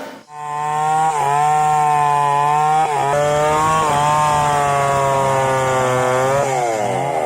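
Two-stroke chainsaw running at high revs, its pitch dipping briefly twice as it bogs under load, then falling as the throttle is let off near the end.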